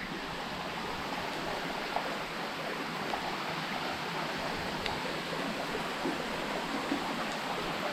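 Steady rush of water falling and trickling through a cave, like rain, with a few faint ticks.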